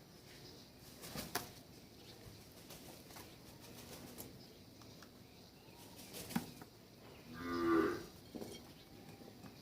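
A cow mooing once, a low call about a second long, near the end. A couple of sharp clicks come before it.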